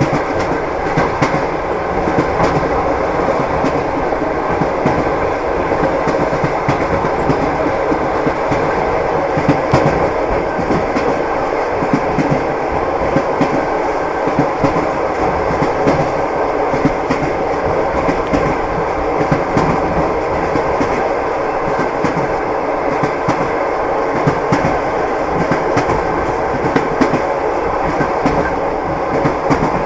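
Train wheels clicking over rail joints in a steady clickety-clack, over the continuous rumble of the moving carriage heard from inside the car.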